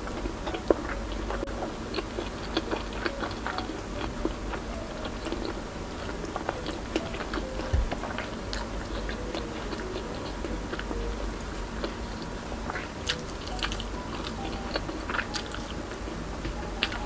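Close-miked eating sounds: chewing and irregular wet mouth clicks and smacks as pork belly and tilapia in coconut sauce are eaten, with music playing faintly underneath.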